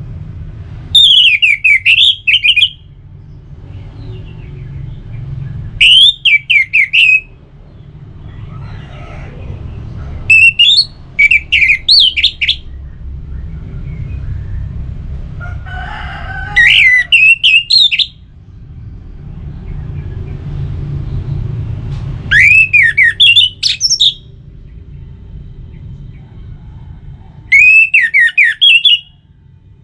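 Orange-headed thrush (anis merah) singing six short, loud phrases of fast whistled slurs, one about every five seconds, with pauses between them.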